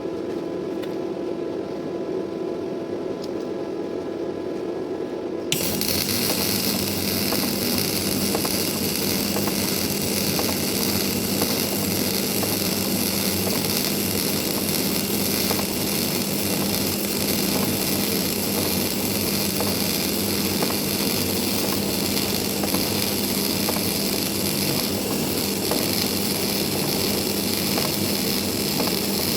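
A steady machine hum, then about five seconds in a MIG welding arc strikes and runs continuously with a dense crackling hiss.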